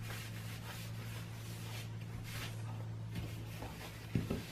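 A few faint strokes of sandpaper rubbing the shiny back of a radio faceplate, roughing it up to take glue, over a steady low hum. A couple of soft knocks come about four seconds in as the plate is set down.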